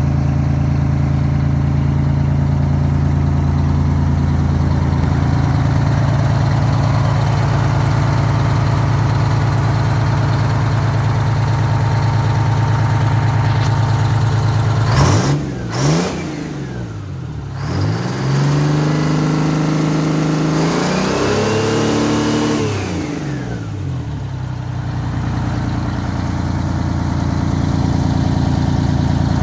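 Pierreville fire truck's engine idling steadily, then revved up and down several times about halfway through, before settling back to idle.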